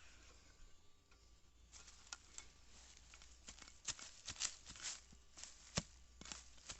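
Digging in soil with a hand tool: irregular short chops and scrapes, several a second, starting about two seconds in.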